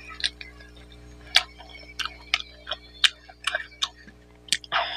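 Close-miked wet eating sounds of a person chewing mutton curry and rice: a string of sharp lip-smacking clicks, roughly one or two a second, with a longer wet sucking sound near the end.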